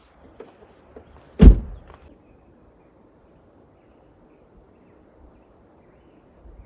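A vehicle door shut once, a single heavy thud about a second and a half in, with a few faint clicks just before it.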